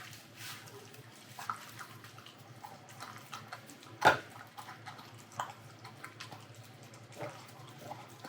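A dog eating boiled chicken, with wet smacking and chewing sounds and one louder smack about four seconds in.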